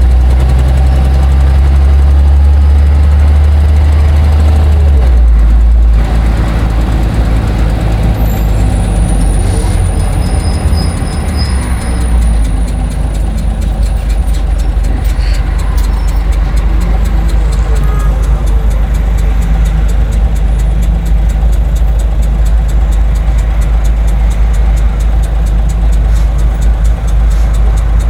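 Scania OmniLink bus engine running with a loud, steady low note that shifts about five seconds in and again around twelve seconds.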